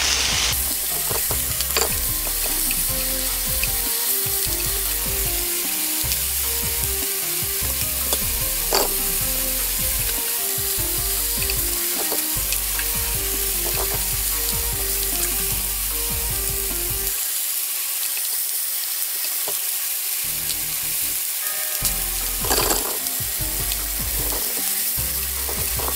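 Chicken skin and chicken scraps searing in a frying pan with no added oil, a steady sizzle as fat renders out of the skin. A few light clicks come as the pieces are moved with chopsticks.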